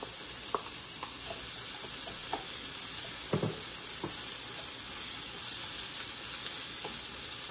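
Frozen mixed vegetables sizzling in a non-stick pan with ghee and sautéed onions and tomatoes, a steady frying hiss. Scattered light knocks and scrapes come from the wooden spatula stirring against the pan.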